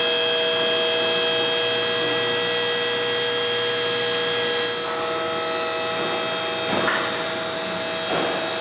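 A shop machine's steady electric whine: a hiss with several constant high tones, which shift a little about halfway through, with a couple of brief handling rustles later on.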